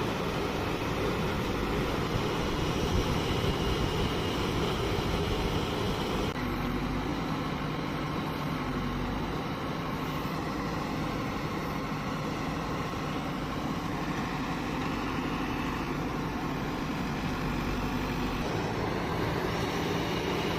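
Heavy diesel engine of a JCB backhoe loader running steadily as it works loading mud. The sound changes abruptly about six seconds in and again near the end.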